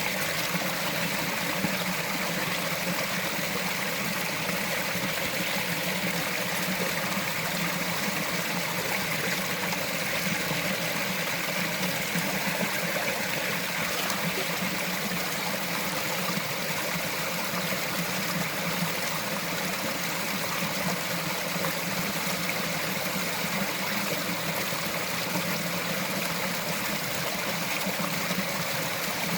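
Small mountain forest stream flowing and trickling over rocks, a steady, even rush of water.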